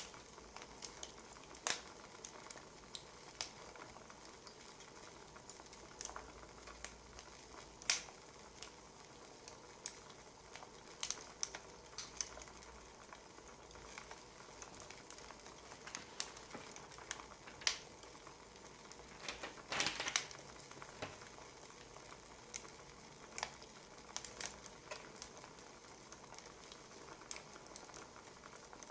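Wood fire crackling: irregular sharp pops and snaps over a soft steady hiss, with a denser flurry of crackles about twenty seconds in.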